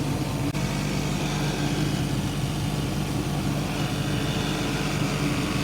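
Gas furnace running with a steady motor hum, its inducer motor still sitting on bad rubber mounts that need replacing.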